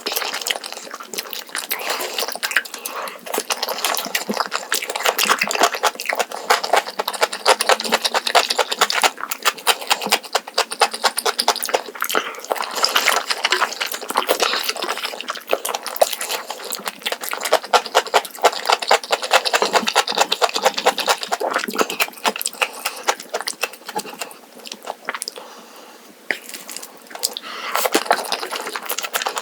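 A person eating close to the microphone: wet chewing and slurping with many quick, sticky mouth clicks.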